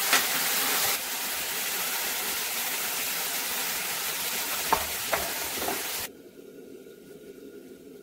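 Chopped boiled jilhur flowers sizzling as they fry in a steel kadai, stirred with a steel spoon that scrapes and clicks against the pan a few times. The sizzling cuts off suddenly about six seconds in, leaving only quiet room sound.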